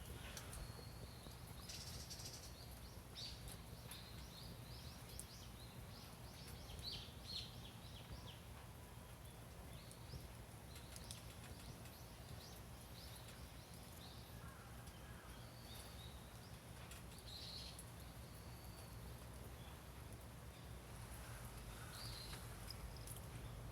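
Faint outdoor ambience: a steady low hum with scattered short bird chirps.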